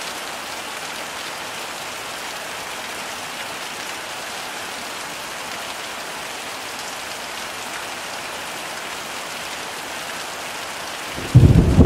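Steady heavy rain falling with an even hiss. Near the end, a loud clap of thunder breaks in suddenly with a deep rumble.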